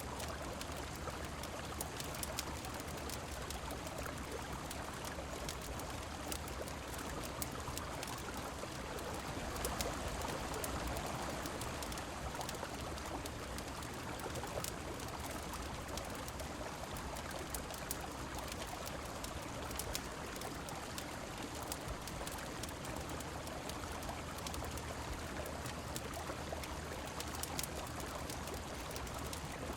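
Steady rushing of river water mixed with falling rain, with many scattered sharp clicks over it. The flow swells a little about a third of the way in.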